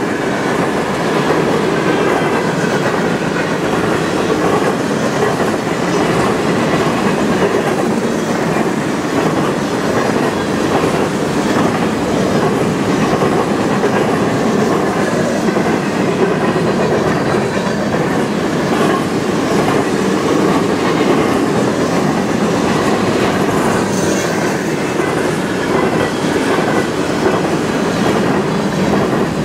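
A long freight train of covered hopper cars passing close by at speed: steel wheels rolling and clattering on the rails in a steady rumble.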